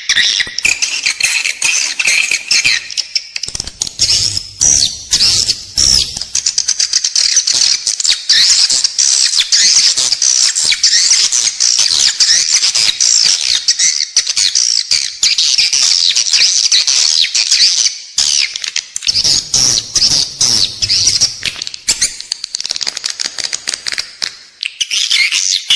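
Edible-nest swiftlets twittering in a dense, continuous chorus of fast high chirps. This is the in-house swiftlet call played inside a nesting building to lure the birds. A low hum comes in briefly twice, about four and about twenty seconds in.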